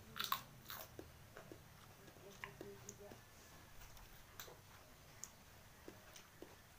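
A bite into dragon fruit peel, with a cluster of sharp clicks about a quarter second in, followed by sparse, faint mouth clicks of chewing.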